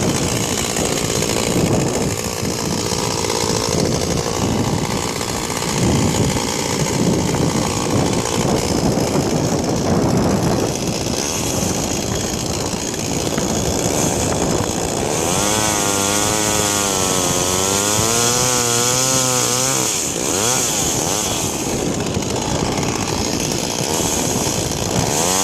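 Chainsaw running steadily. For several seconds past the middle its pitch wavers up and down over and over.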